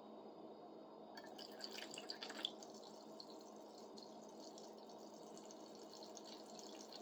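Vinegar being poured into a bucket: a faint trickle and splash that starts about a second in and goes on unevenly, over a low steady hum.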